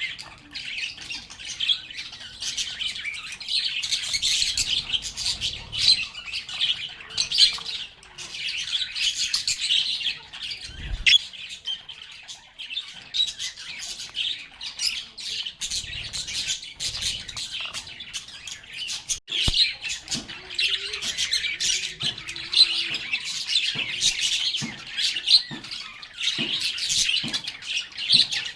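A group of pet lovebirds (Agapornis) chattering continuously, with dense, rapid high-pitched chirps and squawks, and a couple of brief knocks in between.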